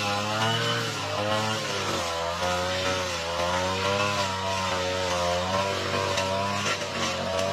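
Small petrol lawn mower engine running under load while cutting thick, overgrown grass, its pitch swaying up and down every second or so as the load changes.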